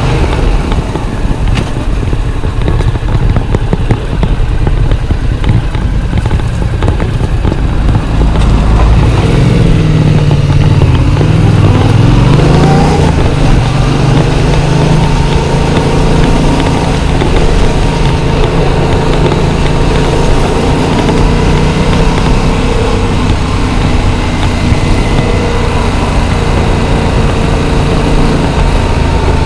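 Yamaha MT-07's 689 cc parallel-twin engine running as the bike is ridden, heard from the rider's chest. About ten seconds in, the engine note drops and then climbs back up, and after that it runs on steadily.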